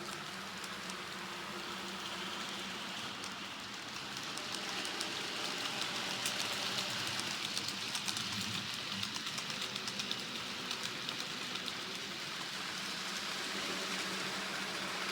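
Model trains running on the layout: a steady rushing of small wheels on rail with a low motor hum, growing louder from about four seconds in and fading back after about eleven, with a run of quick light clicks at its loudest.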